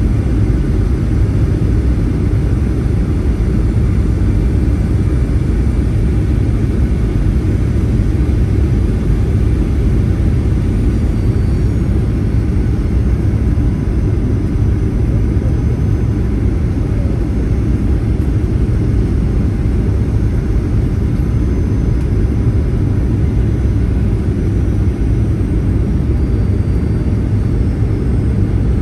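Steady low rumble inside the cabin of a Boeing 737-800, from its CFM56-7B turbofan engines and airflow, holding an even level throughout.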